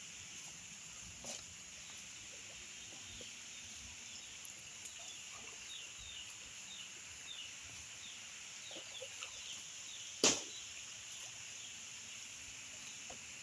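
Steady rain hiss with a series of short, high, falling bird chirps, and one sharp knock about ten seconds in.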